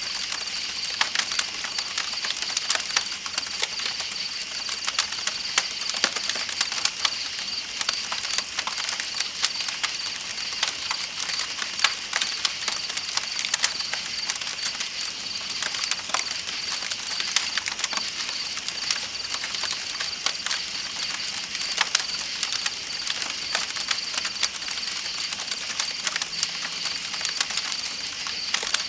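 Campfire crackling with frequent sharp pops, over the steady rush of flowing river water and a continuous high chirring of night insects.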